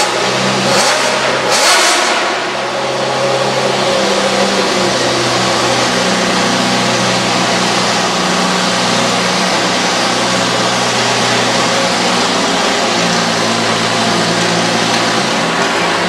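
Motorcycle-engined minirod pulling tractor running hard at high revs, a loud steady engine note held for the whole pull. Two short hissing surges come near the start.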